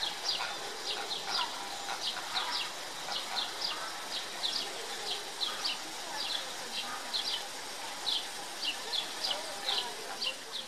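A small bird chirping over and over: short high notes that fall in pitch, often in quick pairs, about three a second.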